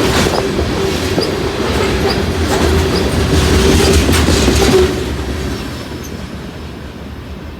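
Freight train of hopper cars rolling past, with regular wheel clicks and a steady tone that stops about five seconds in. The sound then fades as the end of the train goes by and moves away.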